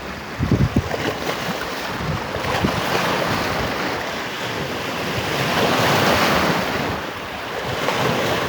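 Sea surf: waves breaking and washing ashore, the rush swelling twice. Wind buffets the microphone with low rumbles, most strongly about half a second in.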